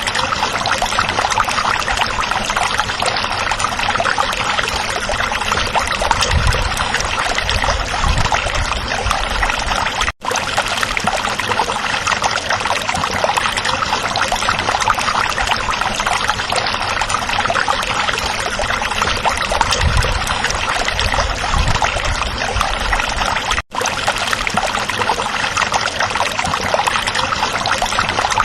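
Stream water babbling and trickling over rocks in a steady rush, with two brief dropouts where the sound cuts out for an instant.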